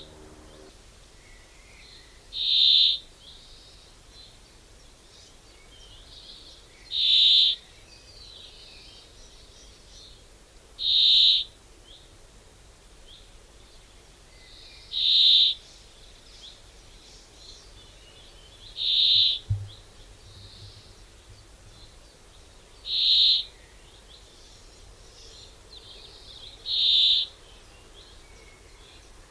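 A bird calling: a single short, high call repeated at a steady rhythm, about once every four seconds.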